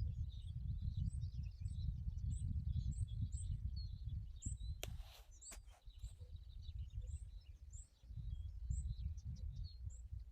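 Small birds chirping: short high chirps repeat about once or twice a second amid other twittering. A low gusty rumble runs underneath and drops away for a few seconds about halfway. Around the middle there is a sharp click with a brief hiss, then a second, smaller click.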